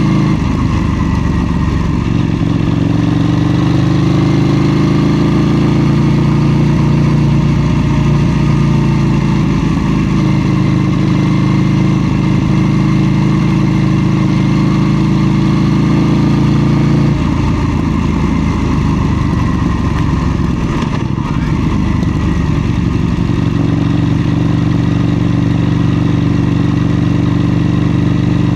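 KTM 790 Duke's parallel-twin engine running steadily under throttle while riding. About two-thirds of the way through, the engine note falls away and changes, as when the throttle is rolled off. A few seconds later the steady note picks up again.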